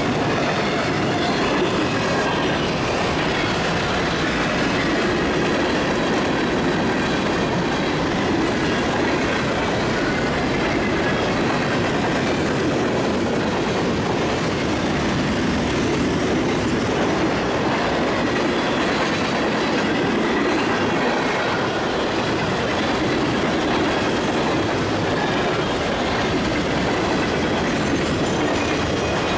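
Freight train cars rolling past at close range: a steady rumble and clatter of steel wheels over the rails that carries on without a break as autoracks, boxcars and tank cars go by.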